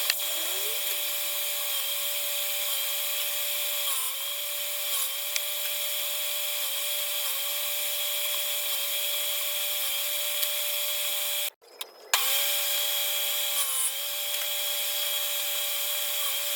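High-speed electric power tool running as it works wood, its whine dipping briefly in pitch several times as the cut loads the motor. It cuts out for about half a second about two-thirds of the way through, then runs on again.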